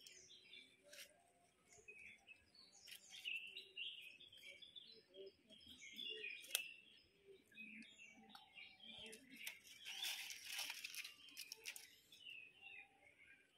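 Faint birds chirping in short, repeated calls, with a brief rustle about ten seconds in.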